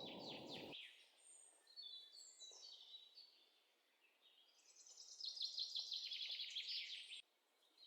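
Faint birdsong: a few short high chirps and sliding notes, then a rapid run of chirps from about five seconds in that stops about two seconds later.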